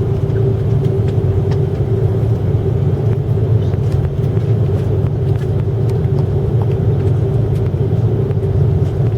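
Steady cabin noise of an Airbus A330-300 airliner: an even low rumble from the engines and airframe with a steady hum over it, holding one level without rising.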